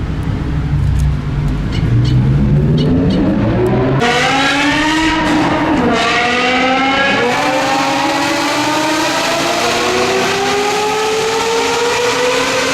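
High-performance car engine with a loud aftermarket exhaust accelerating hard: the note climbs steadily, drops once about six seconds in like an upshift, then climbs slowly again.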